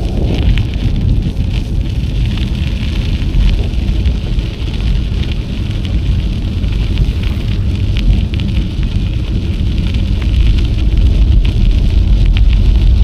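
Wind buffeting an action camera's microphone during a bicycle ride: a steady low rumble, with a fine crackle and scattered clicks from the bike's tyres and frame rolling along the trail.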